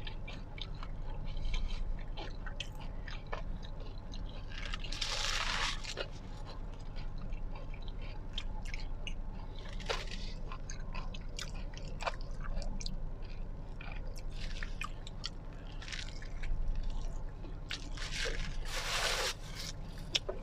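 A person chewing and biting into a tamiya (falafel) wrap up close, with small crunches and wet mouth clicks. Two louder bursts of noise come about five seconds in and near the end, over a steady low hum.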